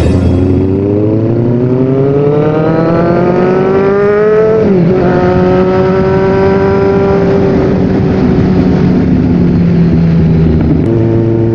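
Kawasaki Z1000 inline-four engine accelerating, its pitch rising for about four and a half seconds. An upshift then drops the pitch sharply, and the engine holds steady before slowly falling as the throttle eases off.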